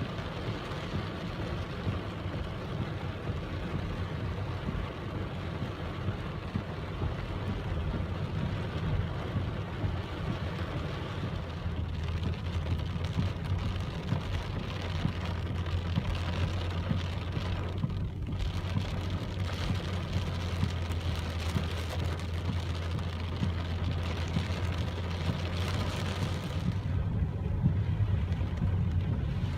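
Steady rainfall over a constant low rumble.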